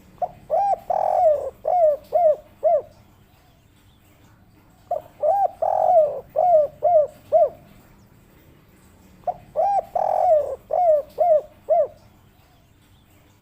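Spotted dove (derkuku) cooing its 'kuk 3' song three times, a phrase every four seconds or so. Each phrase opens with a couple of short coos, swells into one longer rolling coo, then ends in a quick run of short coos.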